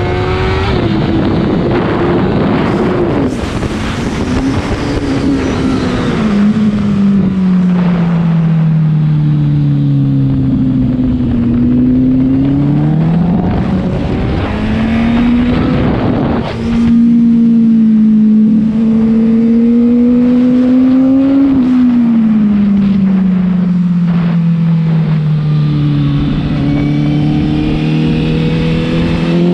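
2014 Honda CBR1000RR inline-four with a Two Brothers aftermarket exhaust, heard on board at track speed over heavy wind rush. The engine note sinks slowly as the bike slows for corners, then climbs again as it pulls out, several times over.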